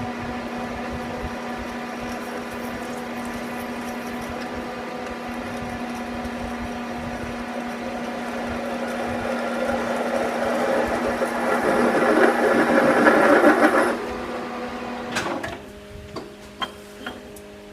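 Metal lathe in low gear, its gear drive humming steadily while a center drill cuts into spinning cold-rolled steel. The cutting noise swells from about eight seconds in and stops abruptly at about fourteen seconds. A single knock follows, then a few light ticks.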